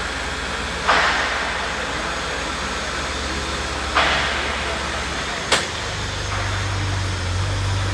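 Vehicle engine idling with a steady low hum, broken by two short hisses about a second and four seconds in and a sharp click about five and a half seconds in, after which the hum changes pitch slightly.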